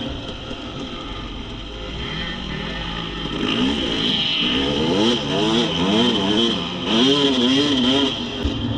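Dirt bike engine revving, its pitch swinging up and down repeatedly in quick blips of the throttle through the second half, over a steady high whine.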